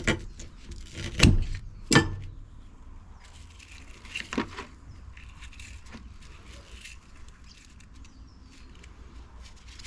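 Secateurs snipping through the copper windings of a washing-machine motor: three sharp snips in the first two seconds and a fainter pair about four and a half seconds in, with light metal clinking and handling between.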